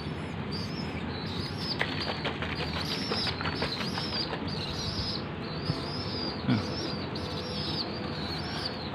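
Young pigeon (squab) making repeated short high begging squeaks. A rapid flutter of wing flaps comes from about two to four seconds in.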